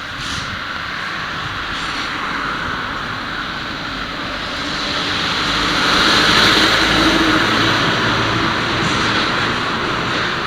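Honda Super Cub 50 with a swapped-in 12V C50E engine, running under a steady rushing noise that swells louder about six seconds in.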